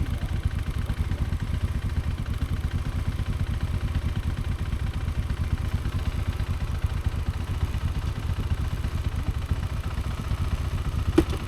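KTM Adventure motorcycle engine running steadily, a fast even pulse of exhaust beats, with one sharp click near the end.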